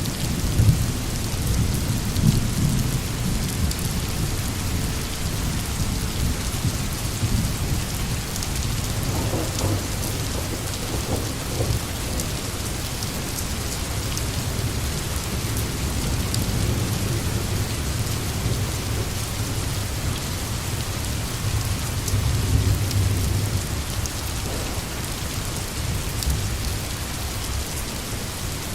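Steady heavy rain with low rolling thunder rumbling underneath, swelling near the start and again about two thirds of the way through.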